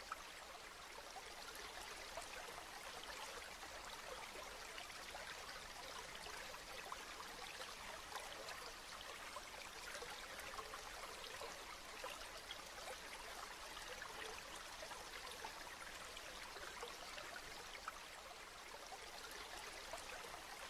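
Steady, fairly soft rainfall: an even hiss of rain with many small drop ticks scattered through it.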